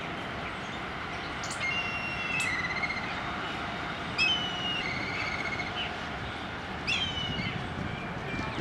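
A bird calling three times, about two and a half seconds apart: each call is a sharp note running into a harsh, wavering trill. The calls sit over a steady background hiss.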